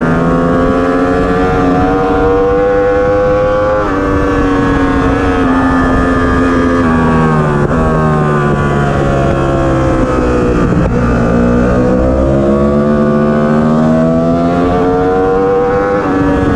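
Yamaha R1 inline-four sportbike engine at high revs under track riding, heard onboard over rushing wind. The revs drop at an upshift about four seconds in, fall away through the middle as the bike slows, then climb again to another shift near the end.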